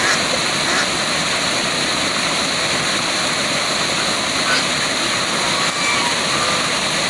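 Waterfall: a steady, even rush of falling water, with a few faint short chirps in the second half.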